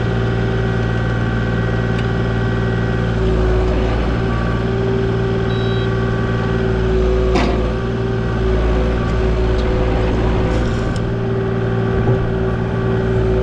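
Diesel engine of compact earthmoving equipment running steadily under working load, its pitch shifting slightly a few times, with a single sharp crack about seven seconds in.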